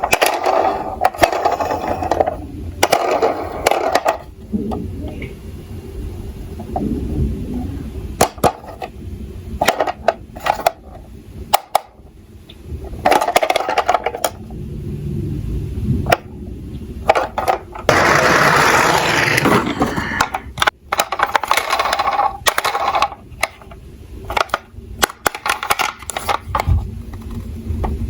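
Die-cast toy cars rolling down a slope, small wheels rattling, with many sharp clicks and clacks as the metal cars knock together and land; the longest and loudest run of rolling comes about eighteen seconds in.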